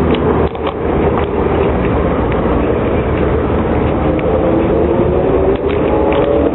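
A car driving, with steady engine and road noise. Near the end the engine note begins to rise as it accelerates.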